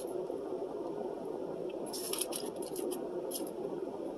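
A person chewing food close to the microphone, with a few short crisp crackles about two seconds in and again a second or so later, over a steady low hum.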